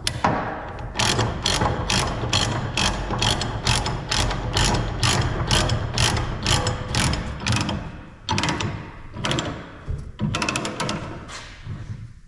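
Ratchet load binder being cranked to tighten a tie-down, making steady ratcheting clicks about three a second. The clicks break off about eight seconds in and end with a quicker run of clicks near the end.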